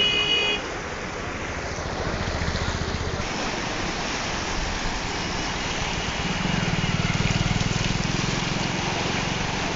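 Steady rush of the flooded Kamla river's flowing water, with low rumbling on the microphone for a second or so near the start and again for a few seconds in the second half.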